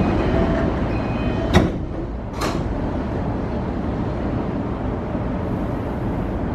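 Cabin running noise of a JR East E235 series EMU (Mitsubishi full-SiC VVVF inverter) under way: a steady rumble of wheels and motors, with faint high steady tones in the first second and a half. Two sharp knocks come about a second apart, near the middle.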